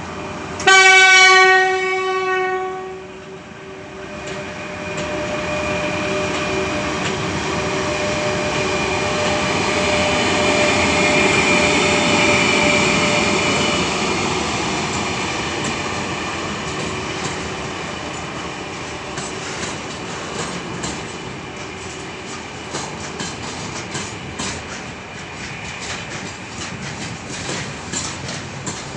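Horn of a 3ES5K 'Ermak' electric locomotive sounding one loud blast about a second in, then the locomotive and its freight train running past, gathering speed. The rush of the train rises and then eases, and in the second half the wagon wheels click rapidly over the rail joints.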